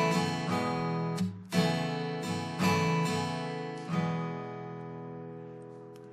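Background music of strummed guitar chords. A final chord about four seconds in is left to ring and slowly fade away.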